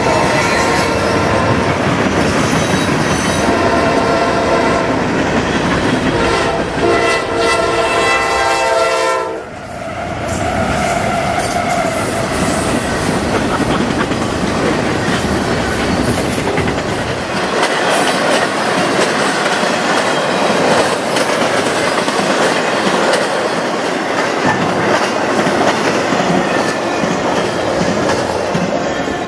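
Train air horn sounding a multi-note chord, loudest in a long blast that cuts off about nine seconds in, then the steady rumble and wheel clatter of a train passing close by.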